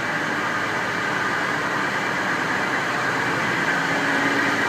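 Passenger train running: a steady rumble and hiss with a faint low hum, slowly getting a little louder.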